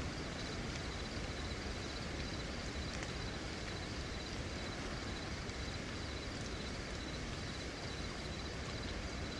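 Steady rain falling, an even hiss that does not break or change.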